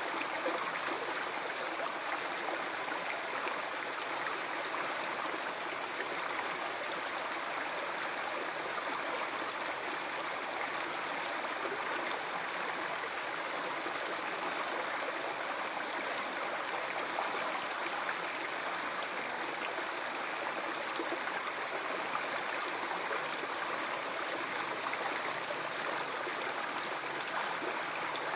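River water flowing in a steady, unbroken rush with gurgling.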